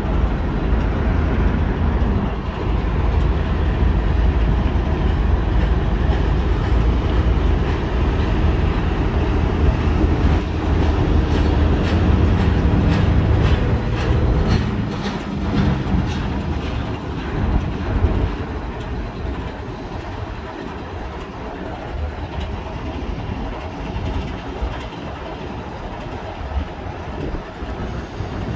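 CSX freight train rolling past: a heavy low rumble that lessens about halfway through, with a run of rhythmic wheel clicks over the rail joints in the middle.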